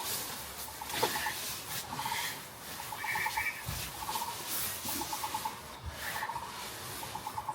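Frogs calling in a chorus: short trains of rapid clicking pulses, repeated about once or twice a second over a steady background hiss.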